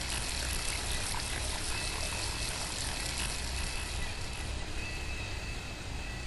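Steady rush of running water, a flat even noise with no beat, slowly fading out near the end.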